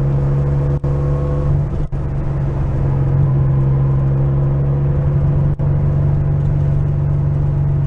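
Porsche 911's flat-six engine running steadily under way, heard from inside the cabin as a constant low drone, with a few very brief dips in level.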